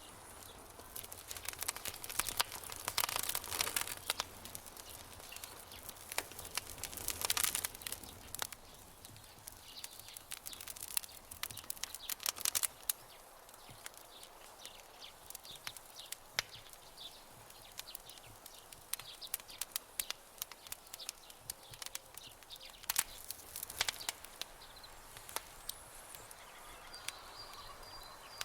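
Campfire crackling: irregular sharp pops and snaps over a soft hiss, with denser flurries of crackles about three, seven and twelve seconds in and again near the end.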